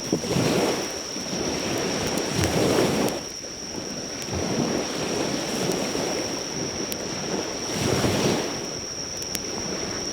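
Sea waves washing onto the shore, swelling and falling back every few seconds, under a steady high insect trill. A few faint crackles from a driftwood campfire come through near the end.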